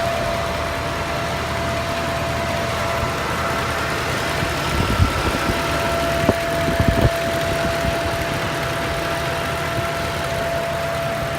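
Mercedes-Benz M156 6.2-litre V8 idling, with a steady high-pitched whine over it that appears after the car has been driven hard. The owner suspects a vacuum forming, possibly at the PCV valve. A few short knocks or clicks come around the middle.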